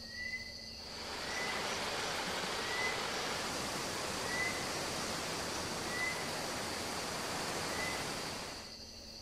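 Forest insects keep up a steady high buzz, with a short chirp repeating about every one and a half seconds. A steady, even rushing hiss comes in about a second in and stops shortly before the end.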